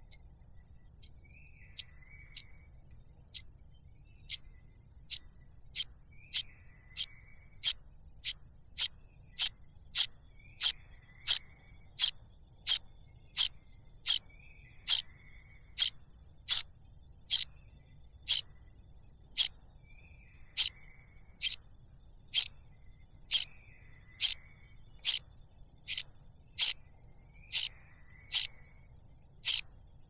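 A bird calling at the nest: one short, sharp, high-pitched note that sweeps downward, repeated steadily a little more than once a second, with a few fainter, lower chirps in between.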